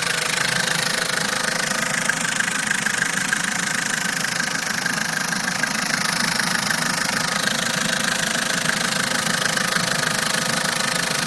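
Vauxhall Corsa Z12XE 1.2-litre 16-valve four-cylinder petrol engine idling steadily, with a light, fast tapping over the running note. The tapping is a slightly rattly timing chain, which is known on these Corsa engines; otherwise the engine runs without knocks.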